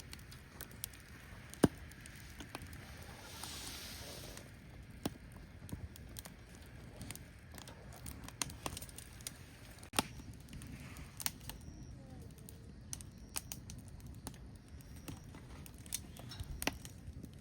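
Wood fire burning: logs crackling with irregular sharp pops over a low steady rumble. The loudest pops come about one and a half seconds in and again about ten seconds in, and there is a brief hiss about three seconds in.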